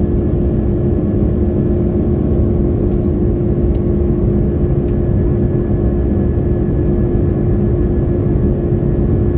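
Airliner cabin noise from the jet engines and airflow: a steady, loud, low rumble with an even hum running through it.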